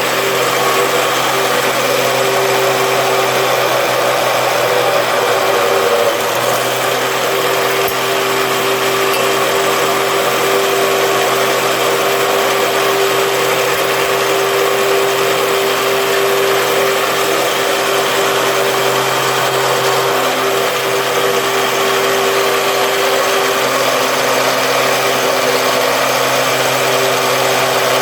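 Homemade mini drill press, its spindle taken from the head of a handheld cutter and belt-driven at a 1:3 ratio, running steadily at an even pitch.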